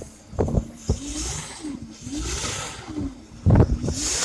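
Carbureted boat engine running steadily, its note wavering up and down a little, with a few loud knocks, the loudest about three and a half seconds in. Any light ticking is what the owner believes is a worn gimbal bearing.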